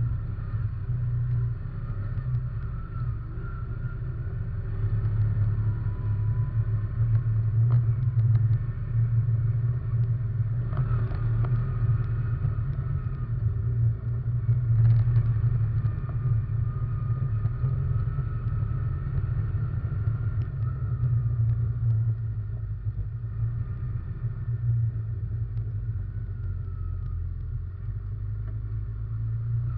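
Russian Mechanics RM 500 ATV engine running steadily while riding, a deep hum with a fainter whine drifting up and down in pitch. Two short knocks come about 11 and 15 seconds in.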